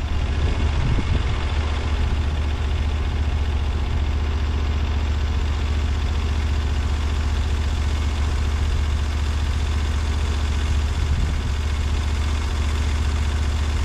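Portable bandsaw mill's engine running steadily at a constant speed, with a strong low hum and no change in pitch or load.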